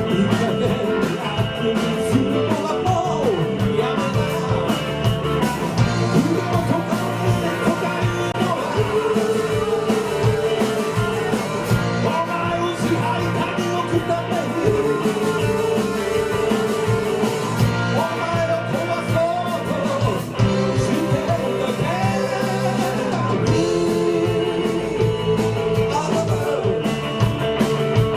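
Rock band playing live, with a sung vocal over guitar.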